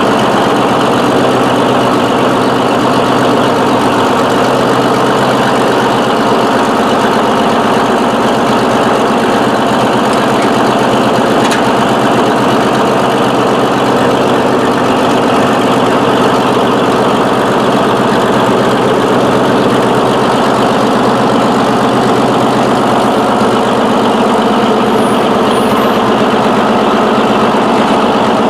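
Murphy diesel engine of a Northwest 80D crane running steadily, with an even, unchanging note.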